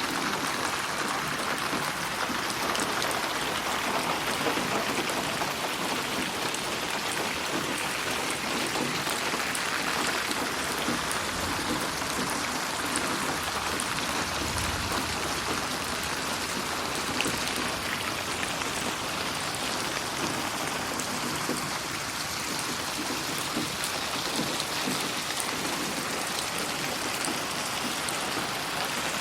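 Steady rain falling, an even hiss of many drops, mixed as 8D audio that pans around the listener.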